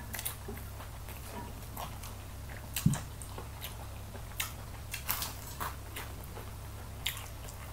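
A person chewing and biting crispy baked chicken wings close to the microphone: scattered short crunches and mouth clicks, with one louder low knock about three seconds in, over a steady low hum.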